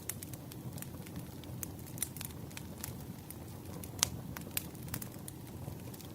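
Burning firewood crackling: a steady low rumble of the fire under frequent sharp crackles and pops, the loudest pop about four seconds in.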